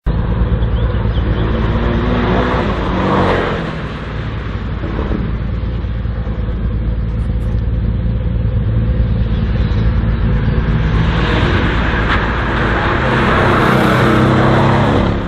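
Slalom racing car's engine revving hard and lifting off as it runs through the cone course, pitch rising and falling with each gear and turn. It grows louder in the last few seconds as the car comes close.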